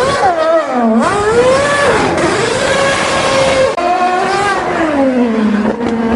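Red Bull RB7 Formula One car's 2.4-litre Renault V8 engine revving, its pitch rising and falling as the throttle is worked, dropping low about a second in and again near the end.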